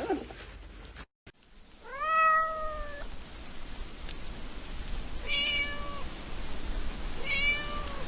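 A cat meowing three times, the first meow the longest and loudest, over a steady background hiss.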